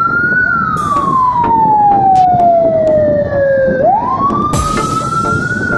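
A wailing siren falls slowly in pitch, then sweeps quickly back up about four seconds in, over a low vehicle rumble. Two short bursts of hiss cut in, about a second in and near the end.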